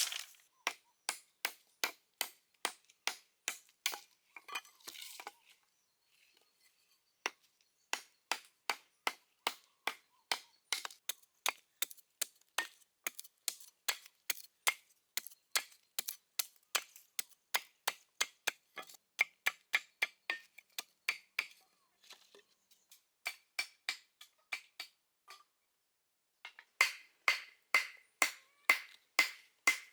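Repeated sharp chopping strikes on wood, about two a second, with a pause of a couple of seconds early on and a shorter break about two-thirds of the way through.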